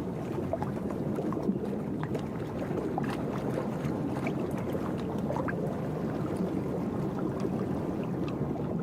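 Steady churning and splashing of shallow water with many small clicks, from a mass of moor frogs scrambling over one another to mate at a spawning pond.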